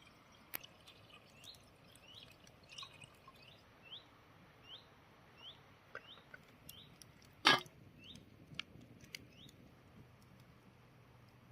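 A small bird repeating a short rising call note over and over, about one every two-thirds of a second, faint. A few soft clicks are heard, with one sharper click or knock about seven and a half seconds in.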